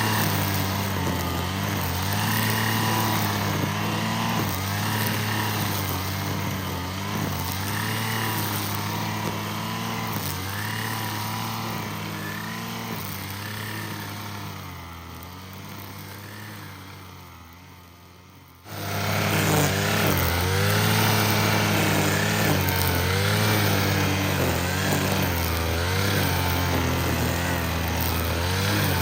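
Petrol string trimmer's small engine running steadily, then fading away gradually over several seconds past the middle, and coming back suddenly at full level a little after halfway.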